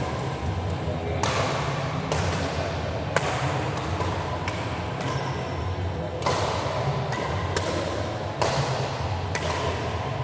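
Badminton rally: a shuttlecock struck by rackets with sharp hits at irregular intervals, about eight or nine in all, over a steady low hum.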